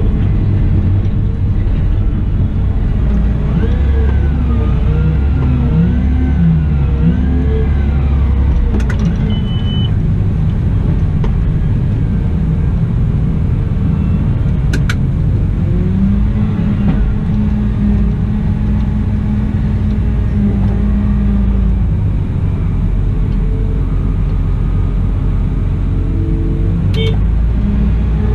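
Cat 972M XE wheel loader at work: its diesel engine and hydraulics run with a steady low rumble, the pitch rising and falling several times a few seconds in, then holding a steady tone for a while in the middle. A few short sharp clicks come through now and then.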